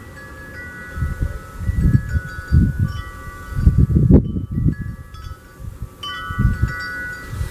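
Wind chimes ringing irregularly, several tones overlapping and fading, with gusts of wind rumbling on the microphone.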